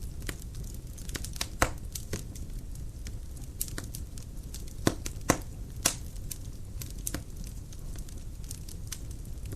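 Dry firewood burning in a fireplace: a steady low rumble of flame with irregular crackles and sharp pops, the loudest pops a little over a second and a half in and three more between about five and six seconds in.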